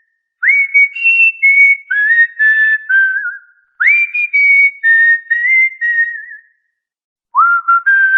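Cockatiel whistling a tune in short phrases of clear notes, each note swooping up into its pitch, with brief pauses between phrases.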